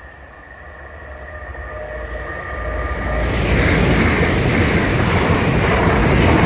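Two coupled Class 387 electric multiple units approaching and passing at speed. A rising rush of wheel and air noise builds steadily and becomes loud about three seconds in, with faint steady whining tones beneath it at first.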